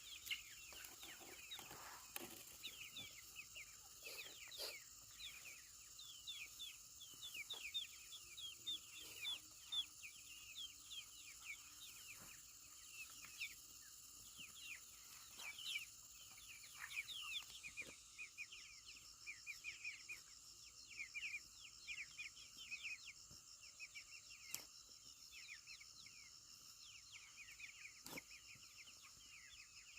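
Chickens calling faintly with many quick, high chirps, over a steady high hiss.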